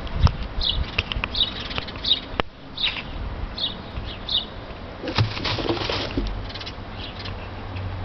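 A small bird chirping, short high falling notes repeated less than a second apart for the first few seconds, over a low background rumble. About five seconds in comes a rustle of straw with a few light clicks.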